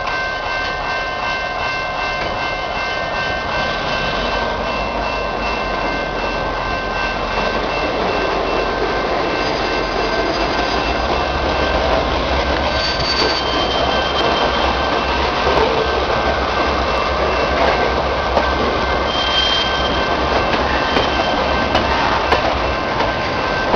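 A slow-moving train of steel tank cars rolling past, its wheels giving a steady high-pitched squeal with several tones coming and going. Underneath, the CN diesel locomotives hauling it throttle up, their low engine rumble growing from about a third of the way in.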